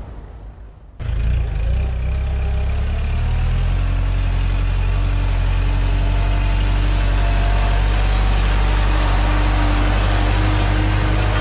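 An engine running steadily with a low hum; it starts about a second in and grows fuller around three to four seconds in.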